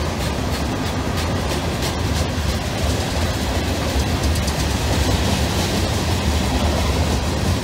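Tank cars and covered hoppers of a long CSX mixed freight train rolling past at steady speed: a continuous rumble of steel wheels on rail with light clicking.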